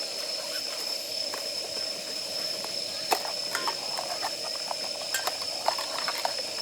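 Damp firewood crackling and popping as it burns, with scattered sharp pops that come more often in the second half, over a steady high hiss.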